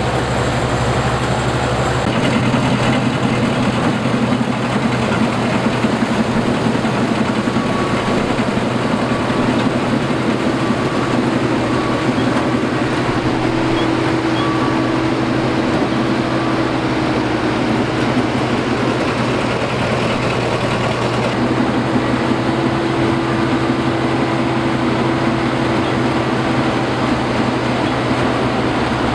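Combine harvester running steadily: a loud, even engine drone with a low hum underneath. The sound changes abruptly about two seconds in and again a little past twenty seconds.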